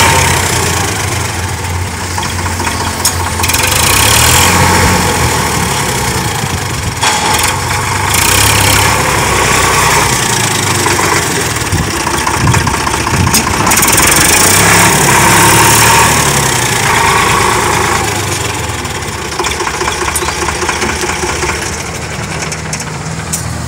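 Diesel tractor engine running, its loudness swelling and easing several times.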